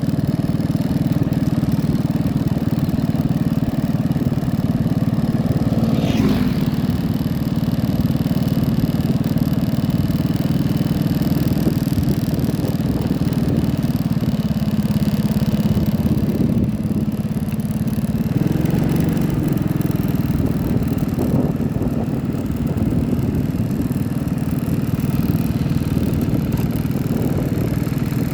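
Tractor engine running steadily, its pitch shifting slightly partway through.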